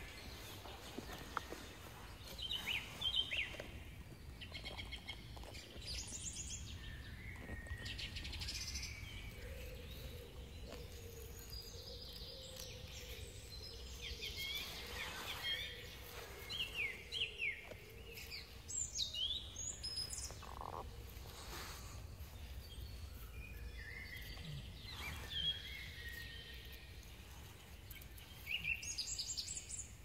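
Small woodland songbirds chirping and calling in short, scattered phrases over a faint low outdoor rumble.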